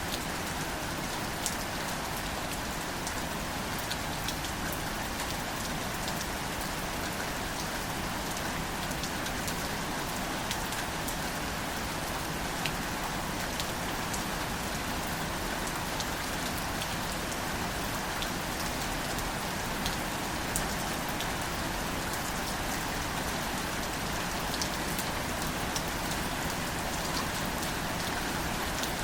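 Steady gentle rain falling on plants, an even hiss dotted with scattered single drop ticks.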